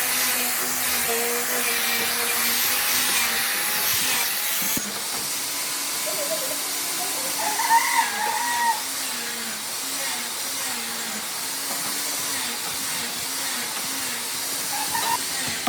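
A steady hissing, whirring machine noise with a faint wavering hum under it. The sound changes abruptly about five seconds in, and a few short chirps come about eight seconds in.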